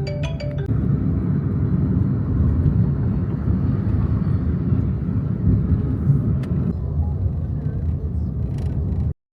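Steady low road and engine rumble of a car on the move, heard from inside, with a few brief tonal notes at the very start; it cuts off abruptly near the end.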